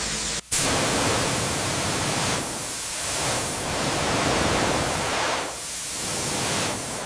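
A hissing spray, swelling and easing every couple of seconds, cut by a brief dropout about half a second in.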